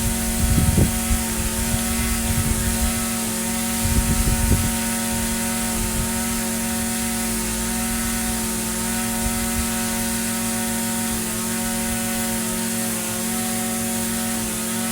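Echo SRM-2620 string trimmer's small two-stroke engine running steadily at a constant speed. Two brief low thumps come near the start and about four seconds in.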